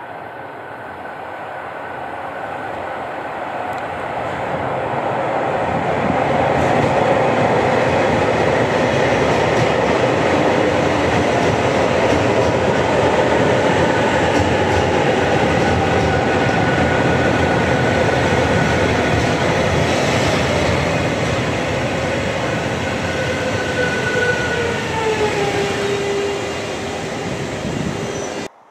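JR Hokkaido 733 series electric train pulling in along a station platform: wheels and running gear on the rails grow louder over the first few seconds and stay loud. Toward the end a whine falls in pitch as the train brakes, before the sound cuts off suddenly.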